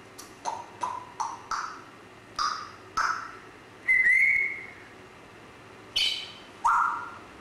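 Grey parrot calling: a quick run of short chirping calls, then a loud, clear whistle about four seconds in, and two more calls near the end.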